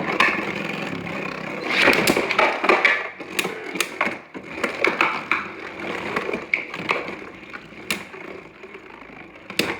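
Two Beyblade Burst spinning tops whirring and scraping around a plastic stadium, with repeated sharp plastic clacks as they collide, several of them harder hits.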